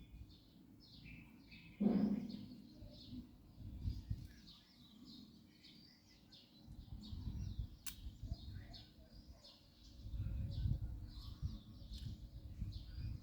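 Small birds chirping over and over in the background, with low bumps and rumbles of handling, a louder thump about two seconds in and a sharp click near the middle.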